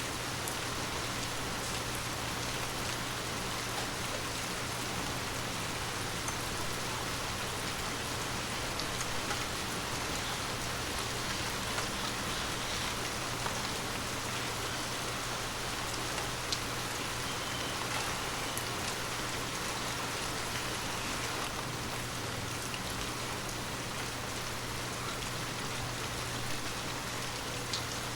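Heavy rain falling steadily, a dense even hiss with scattered sharper ticks of single drops.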